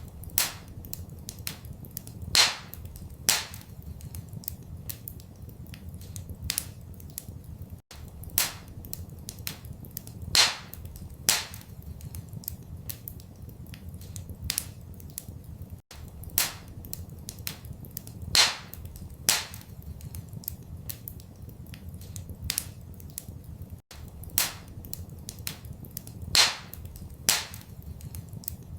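Wood fire crackling in a fireplace: irregular small crackles and louder sharp pops over a steady low rumble. The same run of pops repeats about every eight seconds, with a brief gap at each repeat, as in a looped recording.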